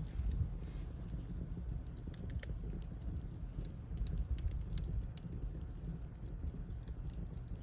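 Firewood burning under a wood-fired bath, crackling with irregular sharp snaps over a steady low rumble.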